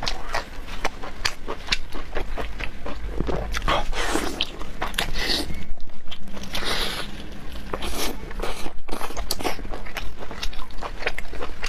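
Close-up eating sounds: a person biting and chewing crunchy food with many sharp crunches and clicks, and a few wetter, noisier smears in the middle.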